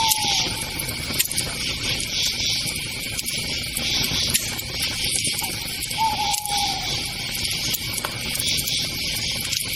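Campfire burning with occasional sharp crackles, under a steady background of crickets chirping in a pulsing rhythm. A short falling whistle-like call sounds twice, once at the start and again about six seconds in.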